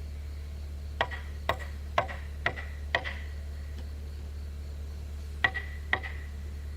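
Hammer blows driving a chisel into wood to cut a mortise hole: five sharp, slightly ringing strikes about half a second apart, then two more after a pause.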